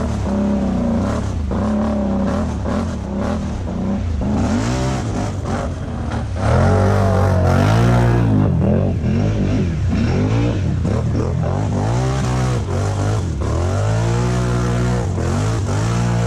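ATV engine revving up and down over and over under changing throttle as it is ridden hard, loudest a little before halfway through.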